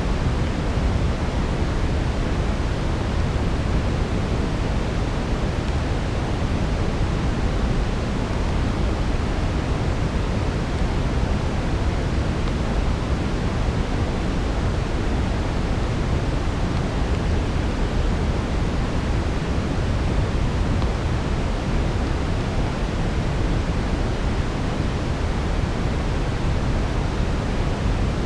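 Steady brown noise: an even, deep hiss weighted to the low end, without change in level.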